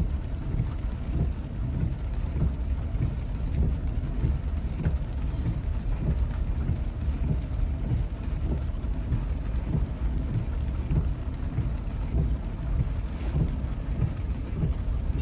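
Car driving on a rain-wet road: a steady low rumble of engine and tyres, with a wind-like hiss.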